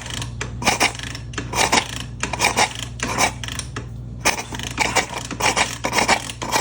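Hydrolocked dirt bike engine being turned over with the spark plug out, water and air spitting from the plug hole in rhythmic raspy spurts, about three a second, with a short break about two-thirds through.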